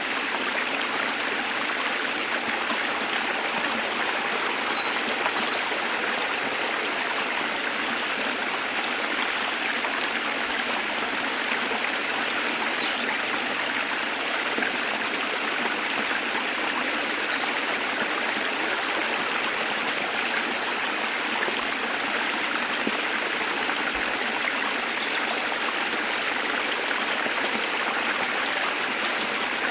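Steady rush of a small waterfall and stream, water pouring and splashing without change, with a few faint, high bird chirps now and then.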